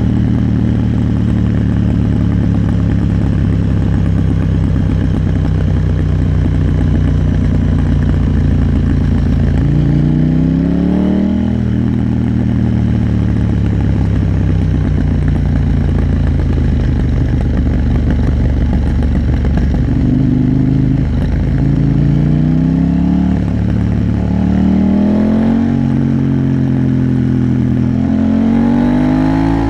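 KTM 890 Duke R's parallel-twin engine running under way, its pitch rising under acceleration and dropping back at gear changes several times, with wind and road noise.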